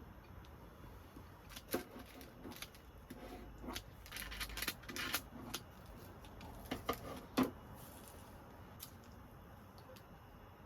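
Scattered light clicks and clatter of small objects being handled, busiest in the middle and ending with one sharper knock, then quiet.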